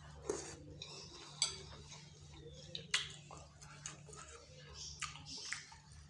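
Eating a bowl of bakso: a spoon clinks sharply against the bowl a few times, with soft chewing and slurping noises in between.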